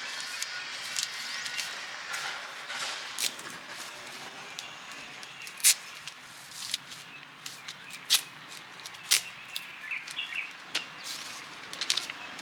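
Irregular sharp taps and knocks from hand work in a repair shop, about a dozen spread unevenly, with a steady hiss in the first couple of seconds.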